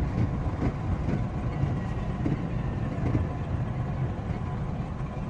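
JR West 227 series electric train running, heard from inside: a steady rumble of wheels on rail with faint steady tones above it.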